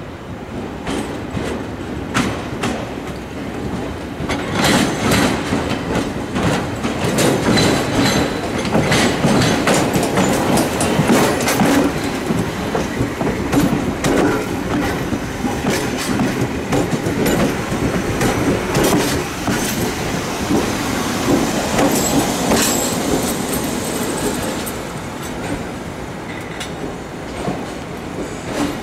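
Toyama Chiho Railway 14760-series two-car electric train running slowly past at close range, its wheels clicking over rail joints and pointwork, with short high wheel squeals. The noise eases off near the end.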